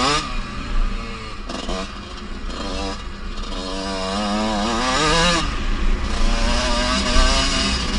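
Kawasaki KX125 two-stroke motocross bike engine running under changing throttle, its pitch falling and rising; it climbs steeply about five seconds in, then drops back.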